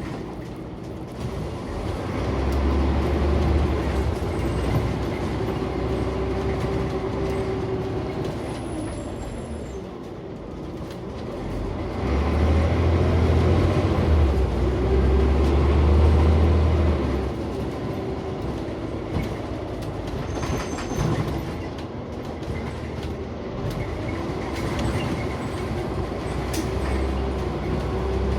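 Scania OmniCity single-deck bus heard from inside the saloon: a low engine drone that swells three times as the bus pulls away or climbs and eases off in between, over steady road and body noise.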